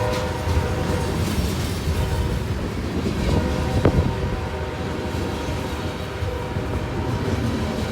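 Diesel freight train rolling by: steady locomotive engine rumble and wheel noise on the rails, with one sharp knock about four seconds in.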